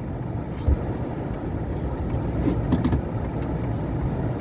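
A vehicle running with a steady low rumble, with a single short thump about three-quarters of a second in.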